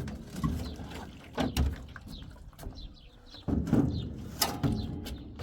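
A series of irregular knocks and thuds, with short, high, falling chirps of small birds between them.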